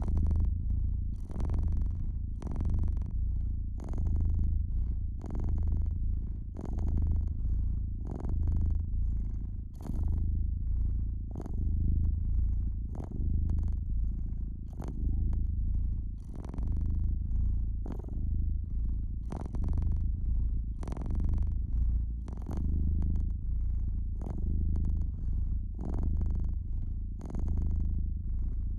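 Domestic cat purring close to the microphone: a low, steady rumble that swells and eases with each breath, about once every one and a half seconds.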